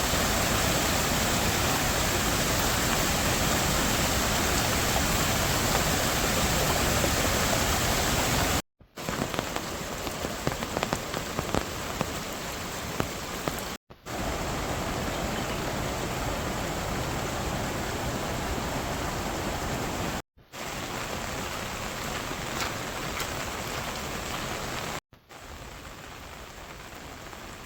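Steady rain falling, heard in several cut-together shots, each at a different loudness; in the second shot separate drops tap sharply on a surface.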